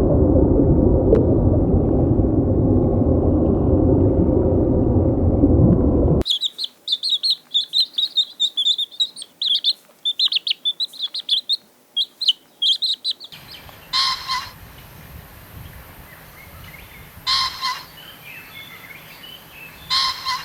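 A loud, steady low rushing noise for about six seconds cuts off suddenly. Rapid, high bird chirping follows for about seven seconds, then three short calls about three seconds apart over a quiet background.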